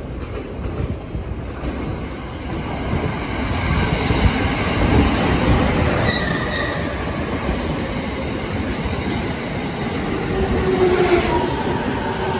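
JR East electric commuter train running into the station alongside the platform, a rumble of wheels on rail that grows louder as it draws near. Brief high squealing tones come about six seconds in, and a steadier whine near the end.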